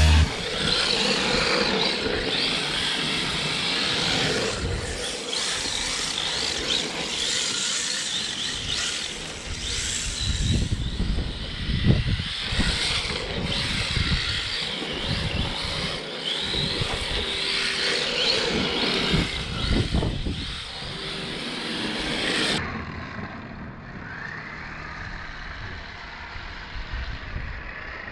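Electric 1/10 RC drift car with a stock brushed motor being driven, its motor whining up and down in pitch with the throttle over a steady rushing noise. About three-quarters of the way through, the sound becomes quieter and duller.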